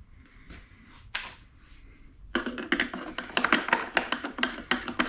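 A single sharp click, then from about halfway through a fast, irregular run of clicking and rattling from hand tools and small hard parts being worked during disassembly.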